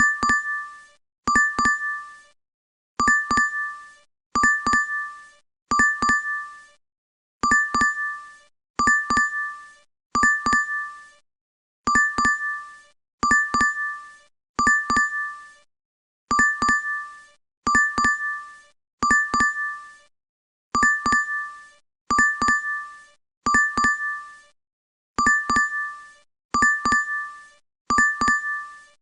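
DoorDash app notification chime: a short, bright ding-ding played over and over, about once every second and a half.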